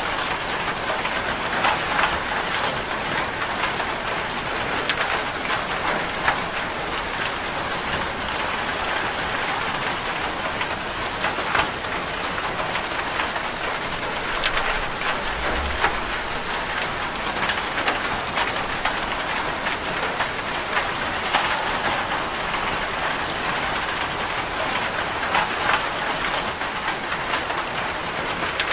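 Steady rain ambience: an even hiss of rainfall with scattered sharp drop clicks. A brief low thud sounds about halfway through.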